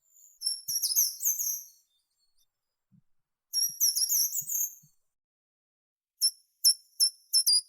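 A songbird singing in very high, quick twittering phrases: two rapid runs of notes, then a string of separate short high notes near the end.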